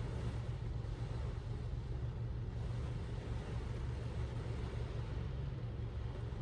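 Steady low rumble and hum with no clear change.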